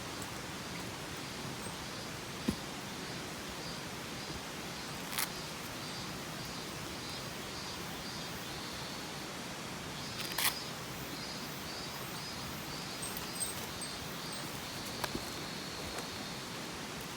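Mountain stream flowing with a steady rush, a few sharp isolated clicks scattered through it, and faint high chirping repeating in the background.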